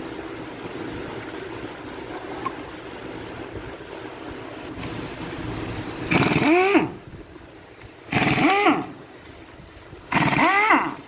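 A power tool, most likely an impact wrench, runs in three short loud bursts about two seconds apart, starting about six seconds in. Its pitch drops at the end of each burst as it is released. Before that there is only a steady low background noise.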